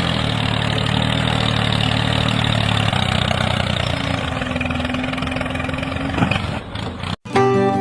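An engine idling steadily, cut off suddenly near the end by strummed acoustic guitar music.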